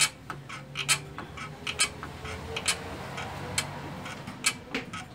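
Isuzu Crosswind clutch squeaking each time the pedal is worked, a short sharp creak about once a second, six times over a faint low hum. The owner puts this squeak down to the clutch master or slave cylinder, usually its rubber seals worn and scored.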